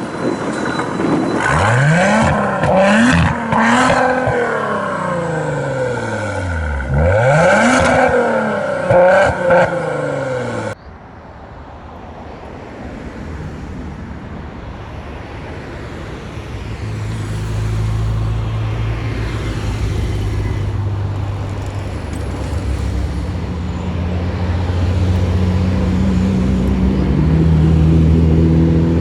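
Ferrari engines revved hard several times, their pitch sweeping up and down in quick blips. After an abrupt cut about ten seconds in, a quieter low, steady engine rumble of cars running at low revs, growing louder near the end.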